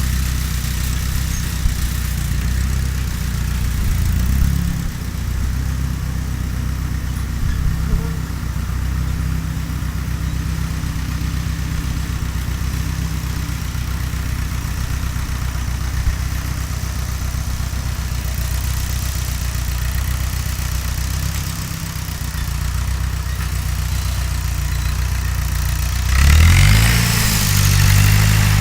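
Fiat 352C tractor engine running steadily while pulling a plough. Near the end the revs rise and it gets louder.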